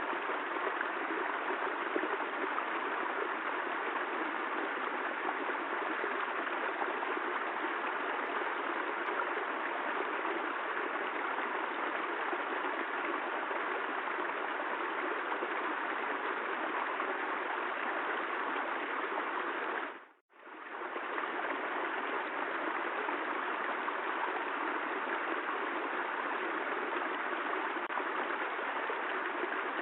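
Steady, even rush of rain recorded for sleep. About twenty seconds in it drops out for a moment and fades straight back in, like a loop join.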